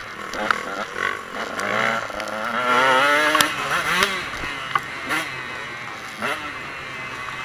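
Motocross bike engine revving hard under acceleration, its pitch climbing for a couple of seconds and then dropping sharply about four seconds in, with another rise and drop near six seconds, amid scattered sharp knocks.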